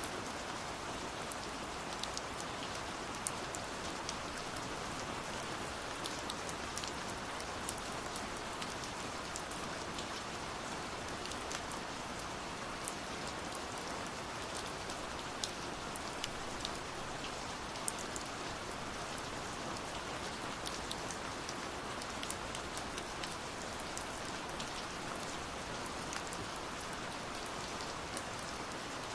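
Steady rainfall, an even hiss with many small drops pattering and ticking on a surface.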